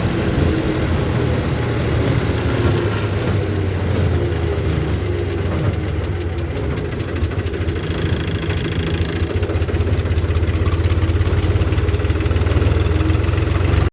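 Tractor engine running steadily, getting a little louder in the last few seconds.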